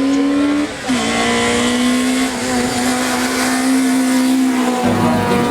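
Race car engine running hard at high revs, with a short break about a second in as it shifts gear, then a long slowly rising note as it pulls through the next gear. The note changes shortly before the end.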